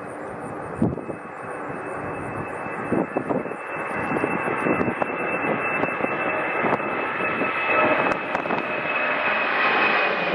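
Jet airliner's engines running, growing steadily louder, with a high steady whine above the rumble.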